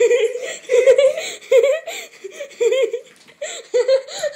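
High-pitched laughter, giggling in repeated short bursts.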